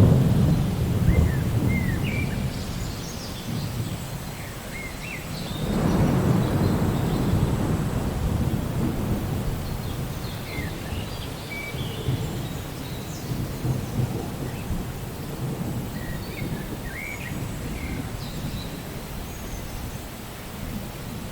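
Steady rain with thunder rumbling twice, once right at the start and again about six seconds in, each roll fading slowly. Short high bird chirps sound faintly now and then over the rain.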